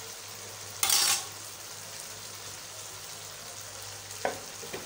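Chicken masala with freshly added yogurt sizzling in oil in a nonstick wok at the bhuna (frying-down) stage, a steady hiss. About a second in there is a loud, brief burst of spoon stirring, and a short knock of the spoon near the end.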